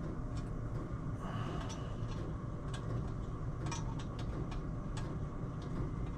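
Scattered light metal clicks and taps from nuts, washers and tools being worked onto engine crankcase studs, over a steady low hum.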